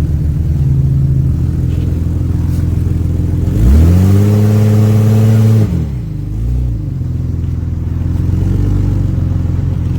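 Car engine running while driving, revving up sharply about three and a half seconds in, holding high for about two seconds, then dropping back, with a brief smaller rev just after.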